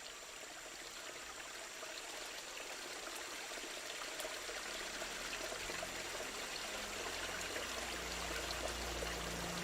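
Floodwater of a river in spate rushing steadily, growing slowly louder, with a low rumble joining about halfway.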